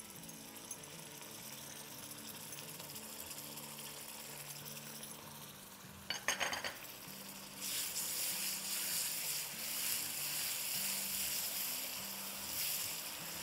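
Onions, spices and tomato purée frying in hot oil in a wok, a low sizzle at first. About six seconds in there is a brief clatter, and then the sizzling grows louder and stays loud as the mixture is stirred with a spatula.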